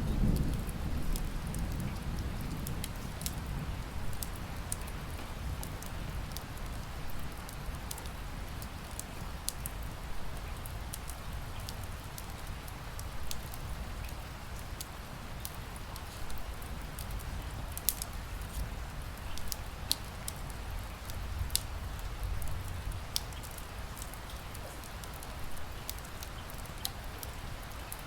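Steady rain together with a wood fire crackling, with sharp pops scattered through it. A low rumble, the tail of a thunder roll, dies away in the first couple of seconds.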